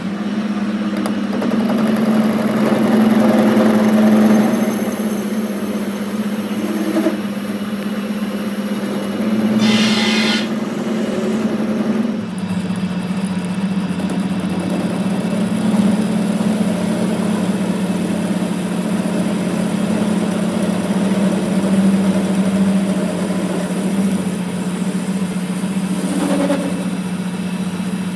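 A workshop machine's motor running with a steady hum, with a brief harsher, higher-pitched burst of noise about ten seconds in.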